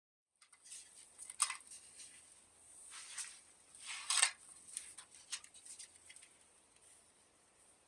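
Faint scattered clicks, taps and scrapes of parts and tools being handled, with a few louder clicks in the first half, over a steady high hiss.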